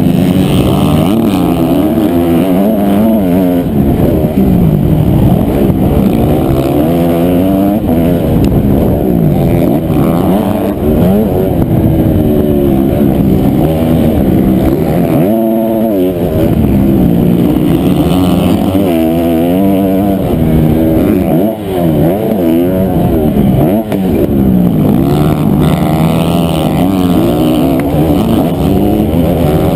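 Honda CRF250R four-stroke single-cylinder motocross engine under hard use, its pitch climbing and dropping again and again as the throttle is opened and closed and gears change, heard close up from the bike.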